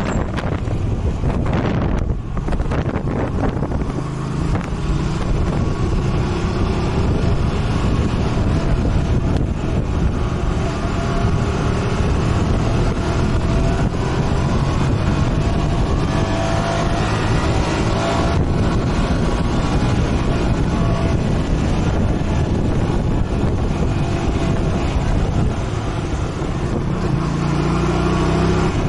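Motorcycle engine running under way, with wind rushing over the microphone; the engine note climbs for a few seconds around the middle, then drops.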